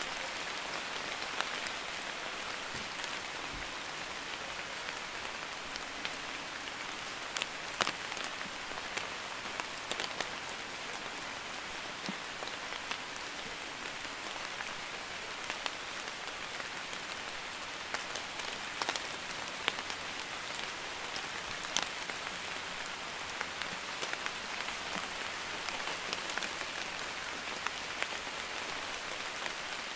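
Light rain falling steadily on wet ground: an even patter, with scattered louder single drop hits now and then.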